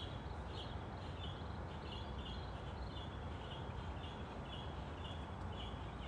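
Birds chirping outdoors: short notes repeated about twice a second, over a steady low background rumble.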